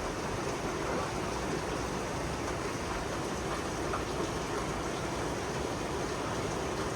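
Heavy rain falling in a steady downpour, an even hiss-like roar with no breaks.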